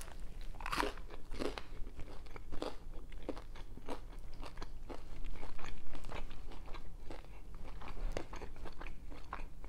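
Biting into and chewing a toasted mac-and-cheese grilled cheese sandwich: a run of irregular crisp crunches from the toasted bread.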